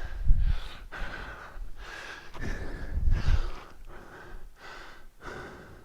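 A man breathing hard and deep, catching his breath after a set of exercise.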